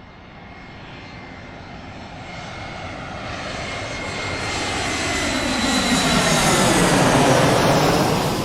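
Airplane flying over: engine noise with a high whine grows steadily louder, peaks about seven seconds in as it passes overhead, then starts to fade, the whine dropping slightly in pitch.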